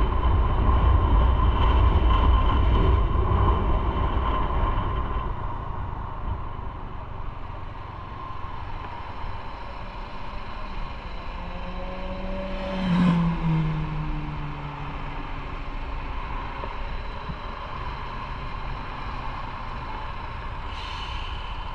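Motorcycle riding on the road: engine and road noise, heavier for the first few seconds and then easing off. About 13 seconds in, a short louder swell comes and goes with a dropping pitch.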